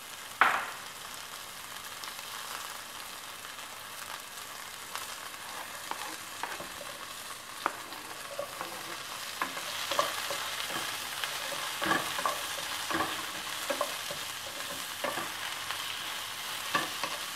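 Chopped onion frying in oil in a pan, a steady sizzle. A sharp knock about half a second in, and from about the middle on a wooden spatula scrapes and taps against the pan as garlic and green onion are stirred in.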